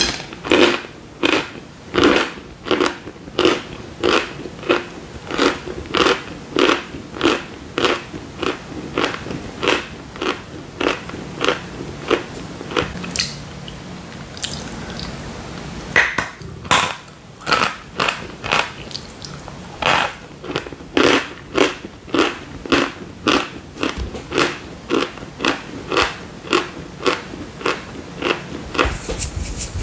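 Close-miked crunching as dry chalk bars are bitten and chewed: a steady run of crisp crunches about one and a half a second. The chewing stops for about two seconds a little before halfway, then a fresh bite and the crunching resumes.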